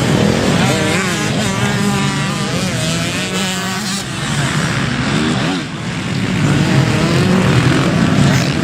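Motocross bike engines revving up and down repeatedly, the pitch climbing and falling as the riders work the throttle and shift, over a steady low engine drone.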